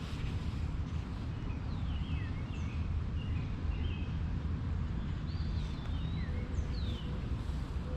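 Birds calling with short chirps and quick downward-sweeping notes, in two spells, over a steady low rumble.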